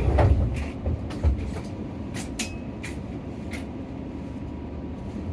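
Nissan Diesel PKG-RA274KAN city bus under way, heard from inside the cabin: a steady low engine and road rumble with several short rattles and clicks from the bus body.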